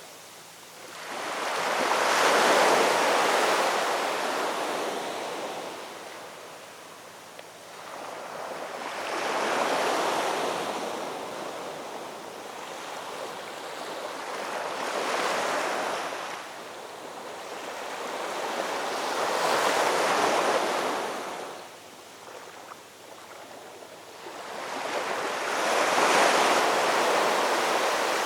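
Ocean waves breaking on a shore, each surge of surf swelling and washing back, about five waves arriving every five to six seconds.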